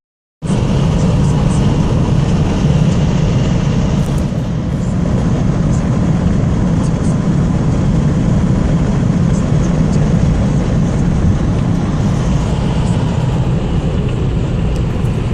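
Steady loud road and engine rumble of a moving car, heard from inside the cabin.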